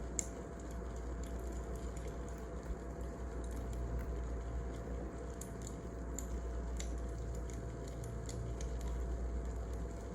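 Wood fire crackling: irregular sharp pops and snaps over a steady low hiss, with a faint steady hum underneath.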